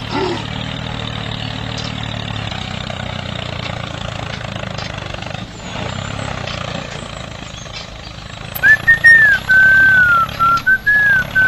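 Mini tractor's small motor running steadily, a low even hum. About two-thirds of the way in, a loud, high, wavering whistle-like tone starts and cuts in and out in choppy bursts.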